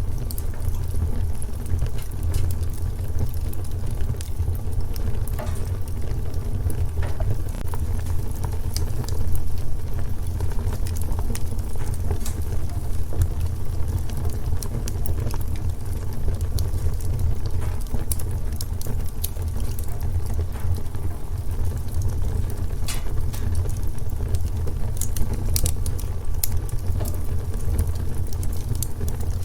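Wood fire burning in a fireplace: a steady low rumble with a constant scatter of sharp crackles and pops.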